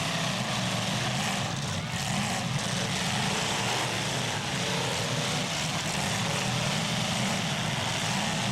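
Engines of several demolition-derby cars running hard together in a steady, unbroken din.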